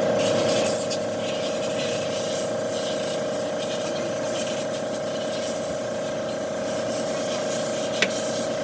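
A steady machine hum with a constant mid-pitched tone, overlaid by hissing that comes and goes, and a single sharp click near the end.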